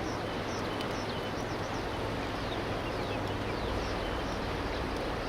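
Small birds chirping repeatedly in short, high, downward-sliding notes over a steady outdoor noise with a low hum.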